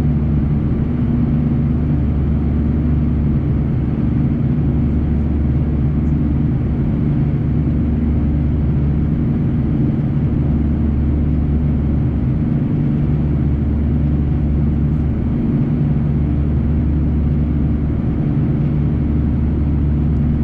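Airbus A340-300's four CFM56-5C turbofans heard from inside the cabin at takeoff power, during the long takeoff roll and slow climb: a steady low drone with several deep humming tones.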